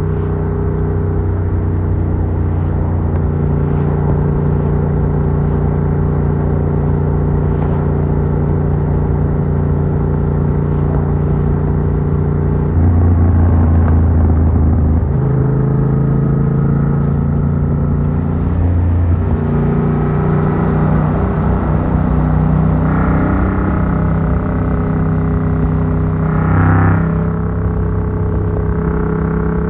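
Yamaha MT-07's 700cc CP2 parallel-twin engine running through an Arrow Works full exhaust with dB killer while riding, heard from a phone in the rider's backpack. The engine note holds steady, then steps up and down several times as the throttle and gears change; it is louder around the middle, with a short loud burst near the end.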